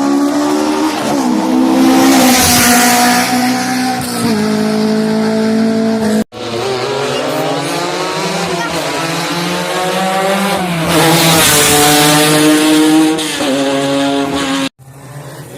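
Rally car engines revving hard, the pitch climbing and dropping repeatedly through gear changes as the cars drive at speed. The sound cuts off abruptly twice, about six seconds in and near the end.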